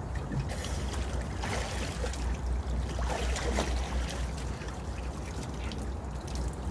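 Water sloshing and trickling close to the microphone, with a steady low rumble underneath.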